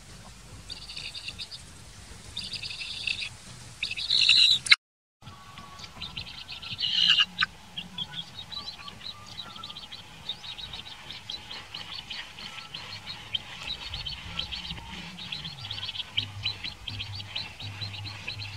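Birds chirping over and over, with louder calls about four and seven seconds in. The sound drops out for half a second just before five seconds.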